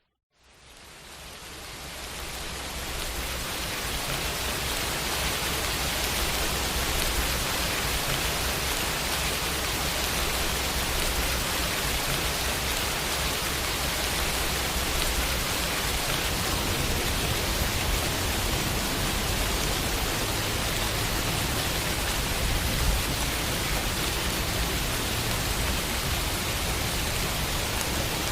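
Steady rain falling on a window pane: a dense, even patter that fades up from silence over the first few seconds, then holds constant. About two-thirds of the way through there is one brief, sharper tap.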